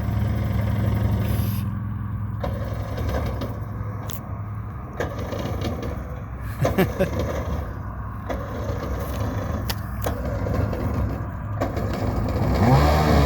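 Small jet boat's engine idling as it warms up, with a few sharp knocks scattered through it. Near the end the revs rise and waver.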